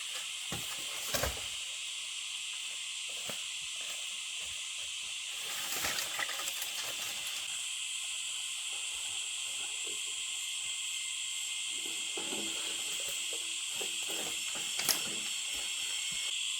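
A steady, high-pitched insect chorus in the forest, with a few short knocks and rustles of handling: one about a second in, a cluster around six seconds, and a sharp one near the end.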